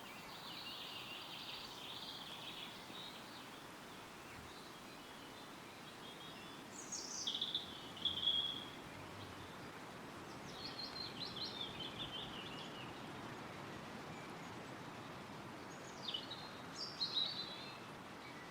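Wind rustling steadily through forest trees, with songbirds singing several short phrases over it. One phrase falls sharply in pitch about seven seconds in, and another is a quick run of descending notes a few seconds later.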